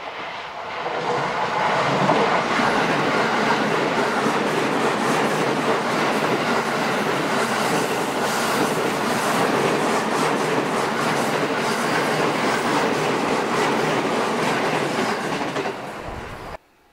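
Electric train passing on the Sobu Line. The noise builds over the first second or two, holds steady and loud, then cuts off suddenly near the end.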